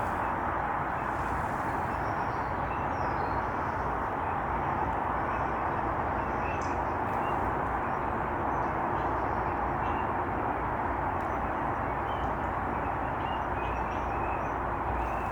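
A steady rushing background noise with faint, short chirps from small birds scattered through it, most likely goldfinches.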